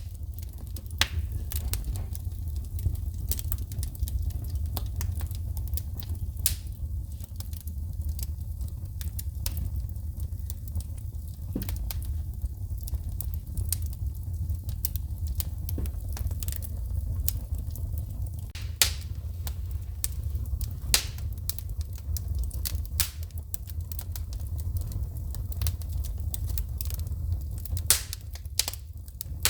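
Wood fire burning in a fireplace: irregular sharp crackles and pops of sparks over a steady low rumble of the flames, with a few louder snaps.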